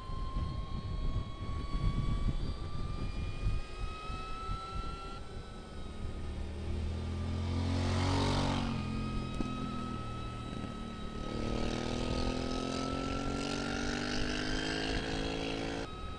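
Energica Experia electric motorcycle riding along, its motor giving a thin high whine that slowly rises with speed, with wind rumble on the microphone. About eight seconds in, another motor vehicle's engine swells and passes, the loudest sound. From about eleven seconds another engine rises in pitch as it accelerates.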